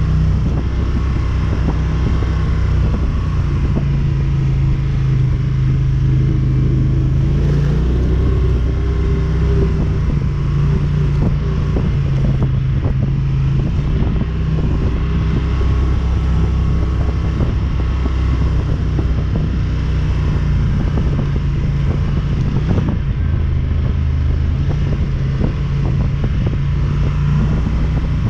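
ATV engine running steadily while riding, its note shifting up and down with the throttle.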